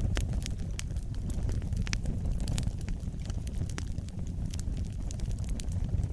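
Wood fire burning with a steady low rumble and frequent sharp crackles and pops scattered irregularly throughout.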